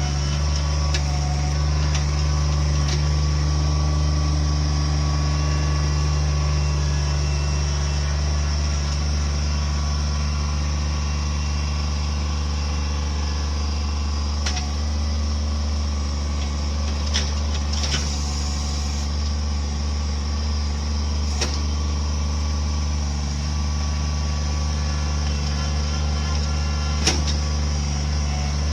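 An engine running steadily at one speed, with a few sharp clicks and knocks over it.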